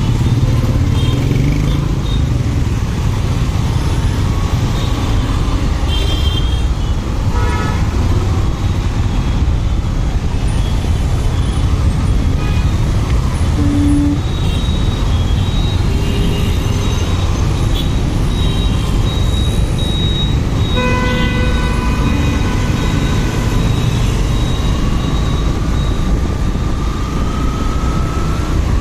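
Riding a motorcycle in traffic: a steady rumble of engine, road and wind noise, with a vehicle horn sounding once for about two seconds roughly two-thirds of the way through.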